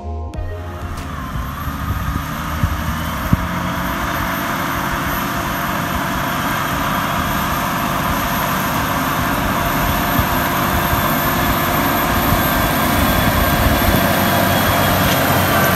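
Tractor engine pulling a disc harrow through stubble: a steady working drone that grows louder as the rig approaches.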